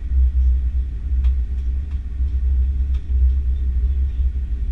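Steady low rumble heard inside the cabin of an Airbus A330-300 moving on the ground, with a couple of faint clicks.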